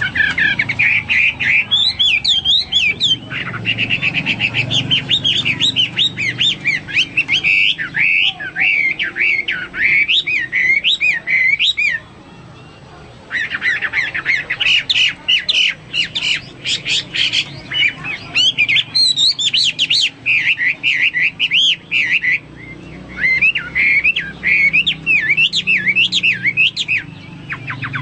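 Hwamei (melodious laughingthrush) singing a continuous, rapidly varied song of loud whistled phrases. The song breaks off for about a second roughly twelve seconds in, then resumes with a run of fast repeated notes.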